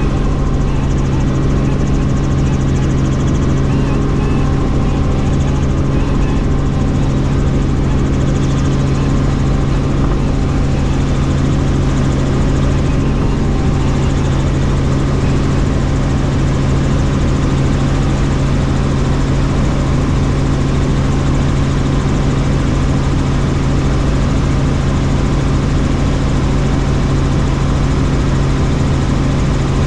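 Helicopter in flight: the steady, unchanging drone of its rotor and turbine engine, with a strong low hum.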